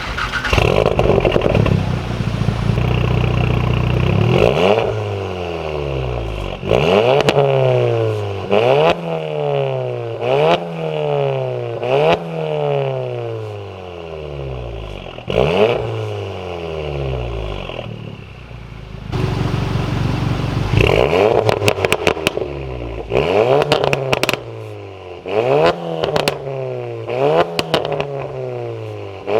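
MK7.5 Golf R's turbocharged 2.0-litre four-cylinder, breathing through an APR downpipe and APR valved cat-back exhaust, revved again and again. Each blip climbs quickly and falls back. Exhaust crackles and pops come through as the revs drop, most of all in the second half.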